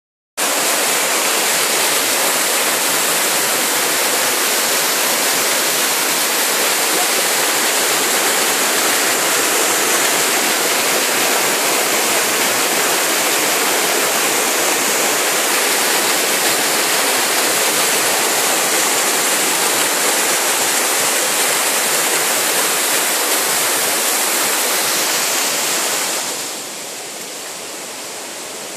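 Waterfall rushing with a steady, loud roar of falling water. About 26 seconds in it drops suddenly to a quieter, thinner hiss.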